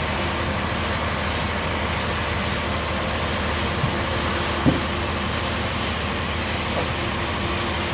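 Bandsaw sawmill running with a steady machine hum. A single short knock sounds a little over halfway through.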